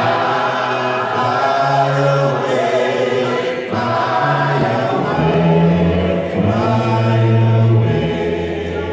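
A church congregation singing a hymn together in slow, long-held chords, with low men's voices carrying the bass notes.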